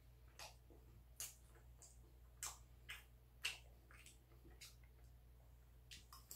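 Faint, irregular wet clicks and smacks of a person chewing a mouthful of food, roughly two a second, over a low steady hum.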